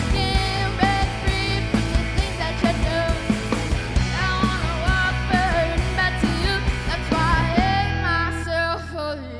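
Live rock band playing a cover song, with drums, bass and a sung melody; near the end the drum hits thin out over a held low bass note.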